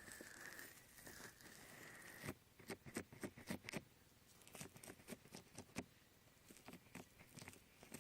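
Fingers massaging the silicone ear of a 3Dio binaural microphone, likely slick with thick aloe gel. A soft, steady rubbing hiss for about two seconds gives way to a run of quick, sticky clicks and squelches, with more scattered clicks later.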